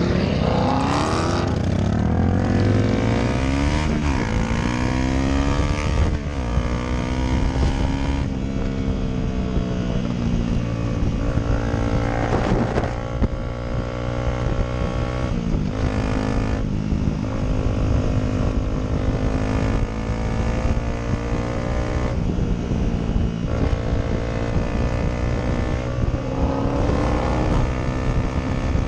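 Motorcycle engine pulling hard from the rider's seat, rising in pitch and dropping back at each upshift several times in the first half, then holding a steadier cruise, with wind rushing past.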